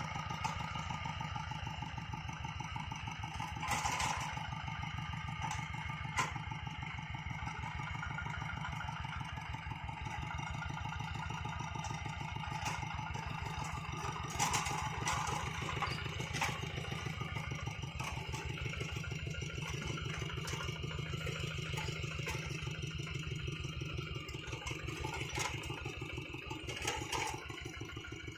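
Hand tractor's single-cylinder diesel engine running steadily at low speed with an even pulse, with a few clanks and knocks now and then.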